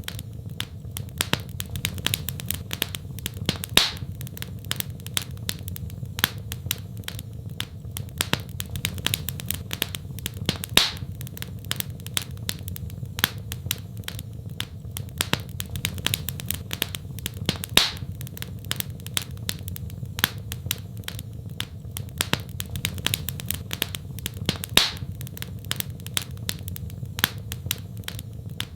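Wood fire in a fireplace crackling steadily over a low rumble, with many small snaps and a louder pop about every seven seconds.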